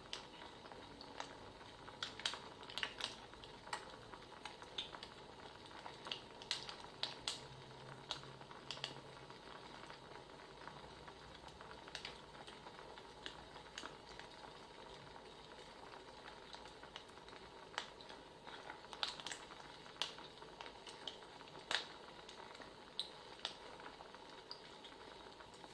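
Wood fire crackling faintly: irregular sharp snaps and pops over a soft steady hiss.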